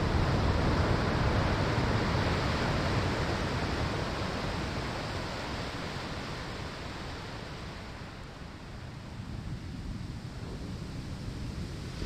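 Ocean waves washing onto a sandy shore: a broad rushing surf that slowly fades over about eight seconds as a wave recedes, then begins to build again near the end.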